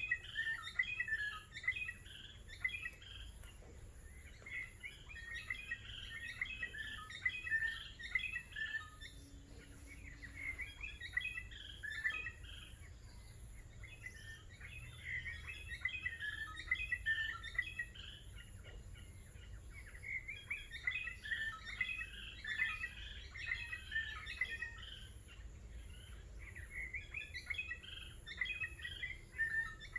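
Small birds chirping in bouts of quick, high chirps that come and go every few seconds.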